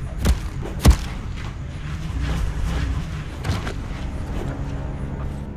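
Heavy thuds: two hard hits about half a second apart near the start, the second the loudest, then a few softer knocks over a low steady rumble.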